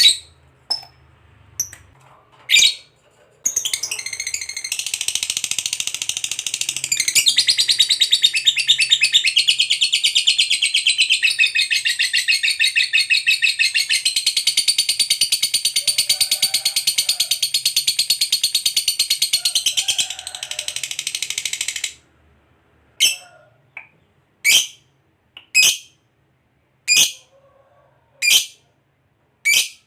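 Lovebird 'ngekek': a few sharp chirps, then a long unbroken, rapid chattering trill lasting about eighteen seconds. It stops abruptly and is followed by single shrill chirps about every second and a half.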